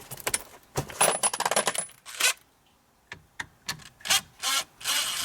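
Metallic clicking and rattling of hand tools and small metal parts being handled, in short bursts. The longest is a quick run of ticks lasting about a second, starting about a second in.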